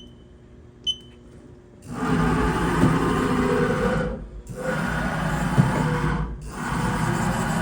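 HAAS VF-0E vertical machining center running its tool changer: two short control-panel key beeps, then from about two seconds in loud, dense mechanical noise of tool changes, broken by two brief pauses.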